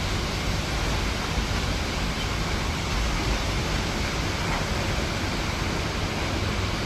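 Steady rush of rain and wind in a thunderstorm, with a low buffeting rumble of wind on the microphone.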